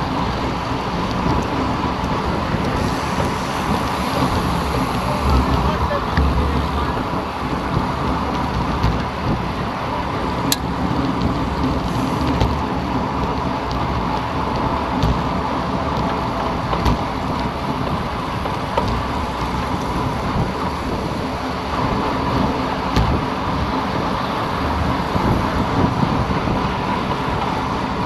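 Steady wind rush on the microphone of a camera riding along on a road bicycle, with tyre and road noise underneath. One sharp click about ten seconds in.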